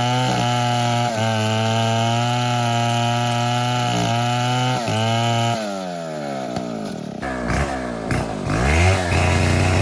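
STIHL MS 070 two-stroke chainsaw running at full throttle while cutting wood, steady apart from a few brief dips. About six seconds in, the revs fall away. After an abrupt change near seven seconds, the engine runs lower and is revved up and down.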